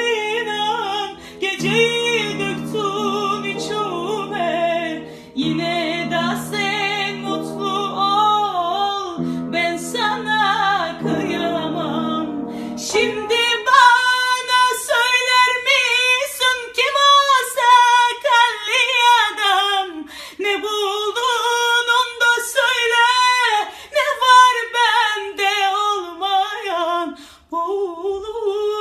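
A song with a woman singing a wavering, ornamented melody over held low chords; about halfway through the accompaniment drops away and the voice continues unaccompanied.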